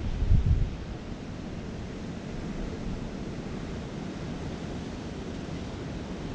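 Wind buffeting the microphone: a steady low rumble, with a couple of stronger gusts in the first second.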